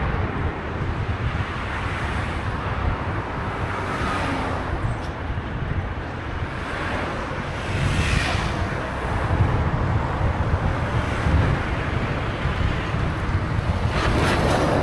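Wind rushing and buffeting over the microphone of a moving bike, with a steady low rumble of road noise. A few louder whooshes swell and fade, one about halfway through and a bigger one near the end.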